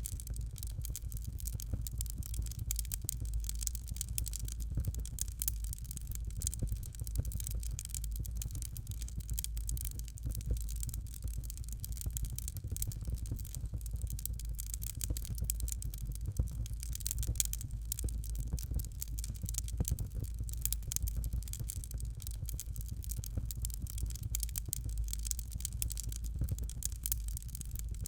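Fireplace fire crackling steadily, with dense irregular small pops and snaps over a constant low rumble.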